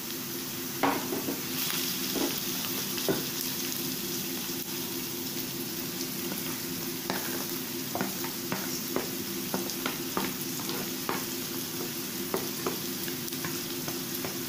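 Diced onion and sweet peppers sizzling steadily in oil in a frying pan. Grated carrot is tipped in around the middle. A run of short clicks and taps of utensils against the pan follows in the second half.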